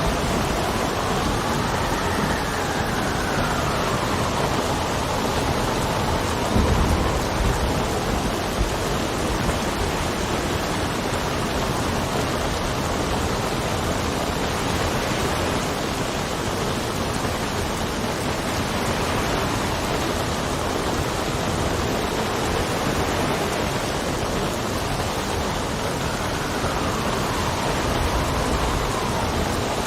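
Steady rain with wind howling, its pitch rising and falling near the start and again near the end. A brief low rumble of thunder comes about seven seconds in.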